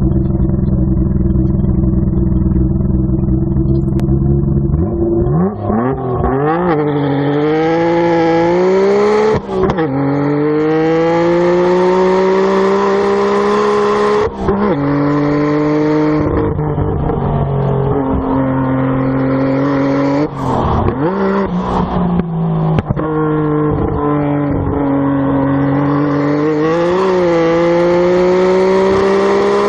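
Nissan R32 Skyline GT-R's twin-turbo straight-six, heard at the exhaust, holds a steady note for about five seconds, then accelerates hard. The pitch climbs through the gears and breaks off in short dips at each gear change, with several brief lifts and blips along the way.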